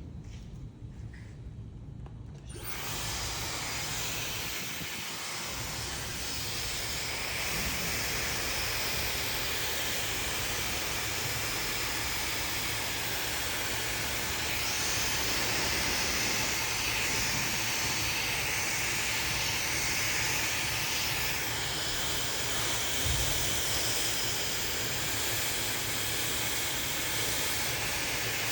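Hair dryer switched on about two and a half seconds in, then blowing with a steady hiss.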